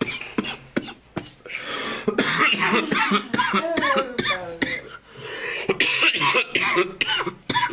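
A man in a long coughing fit: many harsh coughs in quick succession with throat-clearing and rasping breaths between them, brought on by a hit of a joint.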